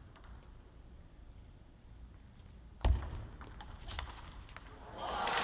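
A quiet hall with a few faint clicks and one dull thud about three seconds in.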